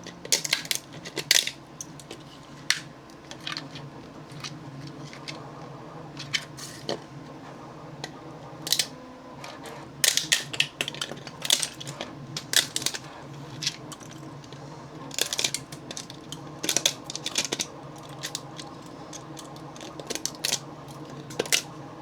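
Pliers snapping support material off a still-warm silk-filament 3D print: irregular sharp plastic clicks and cracks that come in clusters, over a steady low hum.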